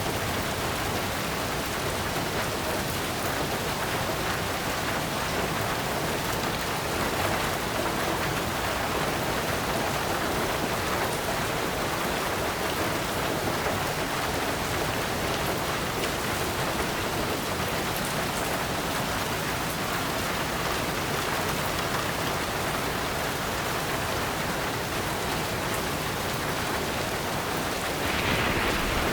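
Heavy rain drumming steadily on a tin roof, a dense even patter of drops.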